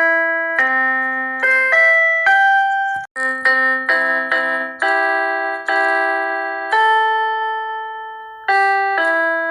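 Keyboard music: a slow run of chords, each struck and left to fade, with a brief break about three seconds in.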